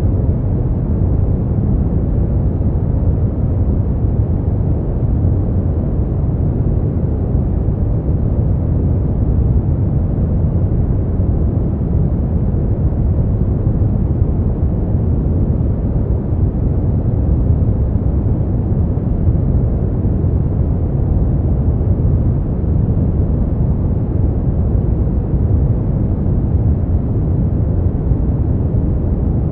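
Brown noise: a steady, deep rumbling hiss, weighted to the low end with little treble, unchanging throughout.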